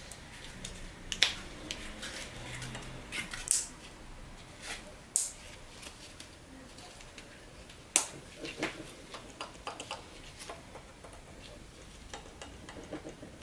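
Irregular sharp clicks and knocks of metal transmission parts and tools being handled on the bench, the loudest about 1, 3.5, 5 and 8 seconds in, with lighter ticks between.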